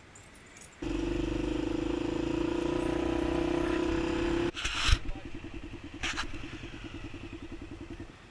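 Dirt bike engine running steadily while riding, starting abruptly about a second in. About halfway it changes to a slower, pulsing beat, with two sharp knocks.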